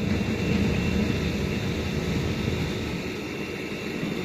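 Small boat motor running steadily, a low rumble.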